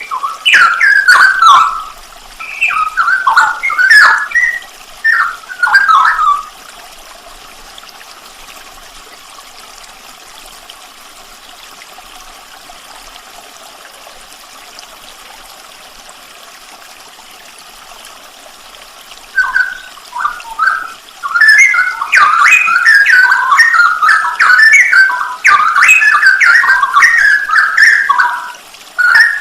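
Straw-headed bulbul (cucak rowo) singing loud, rich whistled warbling phrases in bursts. The singing stops for a long stretch in the middle, leaving only a steady hiss, then resumes as a continuous warble.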